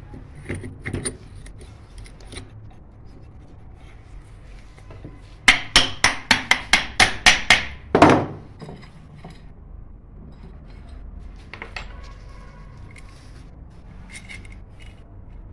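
A hammer taps about ten times in quick succession, roughly four strikes a second, a little over five seconds in. The last strike is the heaviest and rings on briefly. Lighter clicks and scraping of tools being handled come before and after.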